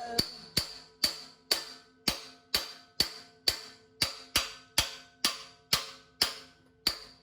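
Hammer blows on steel, about two a second in a steady rhythm, each blow ringing like a bell: a new steel tooth piece being driven into place on a skid steer grapple bucket.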